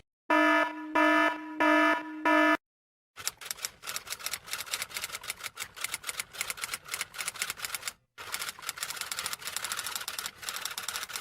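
An electronic alarm sounding four short, evenly spaced beeps, then a typewriter's keys clacking rapidly, with a brief pause about eight seconds in.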